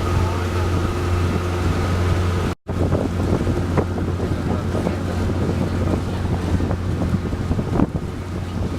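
A boat's engine running with a steady low hum, with wind buffeting the microphone. The sound cuts out for a split second about two and a half seconds in, then carries on with more wind and water noise.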